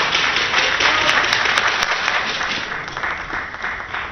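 Spectators applauding, a dense clapping that fades steadily and has died down by near the end.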